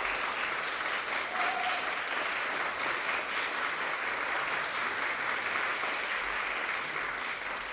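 Audience applauding: dense, even clapping that begins to die down near the end.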